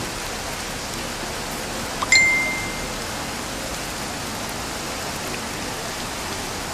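Heavy rain falling steadily, an even hiss. About two seconds in there is a single short, high ding, the loudest sound here, ringing for under a second.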